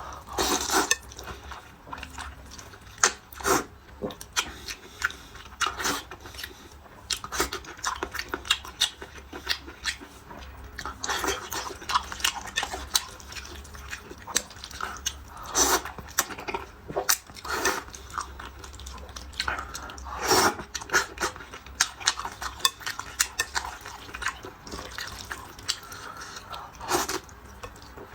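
Eating sounds: chewing and biting, with frequent scattered clicks and clinks of utensils against dishes.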